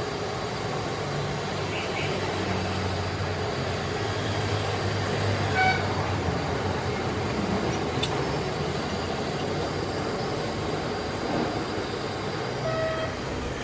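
Busy street ambience: steady traffic noise with a low hum, and two short vehicle horn toots, one about six seconds in and one near the end.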